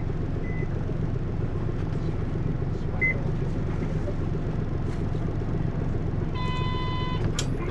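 Cabin running sound of a Hino U-HT2MLAA route bus: a steady low engine and drivetrain rumble while driving, from a bus the uploader describes as tending toward abnormal noises. Short electronic beeps sound at the start and about three seconds in, and a brief electronic tone near the end.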